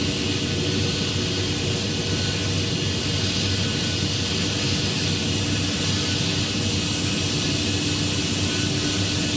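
Jet airliner engine noise, a steady rush with a faint hum that neither swells nor fades.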